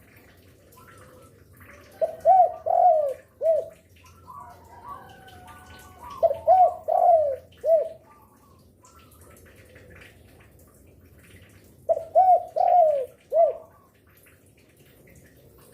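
Spotted dove (derkuku) cooing: three phrases of about four or five arching, mellow notes each, a few seconds apart.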